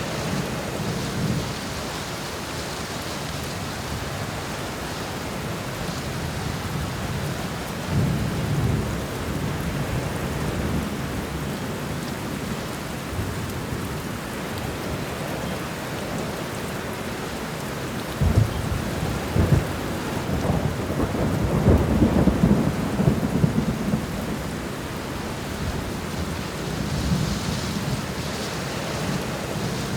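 Steady heavy rainfall with rolling thunder: low rumbles swell about a quarter of the way in, and a longer, louder stretch of rumbling thunder with a few sharp cracks comes just past the middle, with more rumbling near the end.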